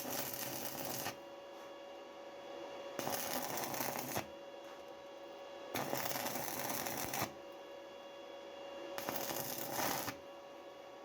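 Four scratchy scraping strokes, each lasting about a second, spaced roughly three seconds apart, over a steady faint hum.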